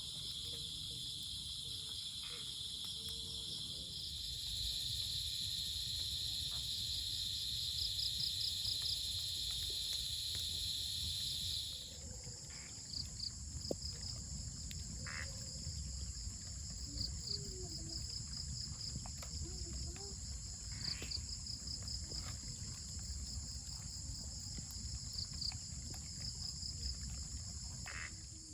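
Insect chorus of crickets and other insects trilling steadily in several high pitches, some layers pulsing. The loudest trill stops suddenly about twelve seconds in, leaving the others going over a faint low rumble.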